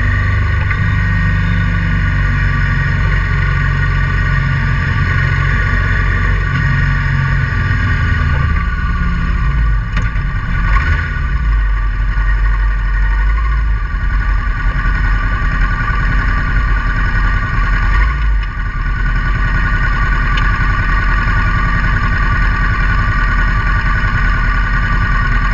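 Honda Transalp 650's V-twin engine running steadily with the motorcycle under way. The low rumble eases about eight seconds in.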